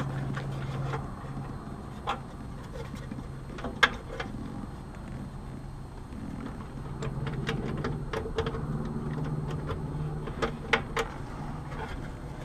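Scattered sharp clicks and taps from hands working air conditioner parts and tools, the loudest about two and four seconds in and a pair near the end, over a steady low hum.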